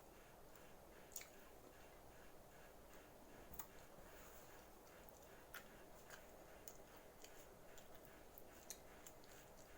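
Near silence: low room tone with faint, irregular clicks from someone eating.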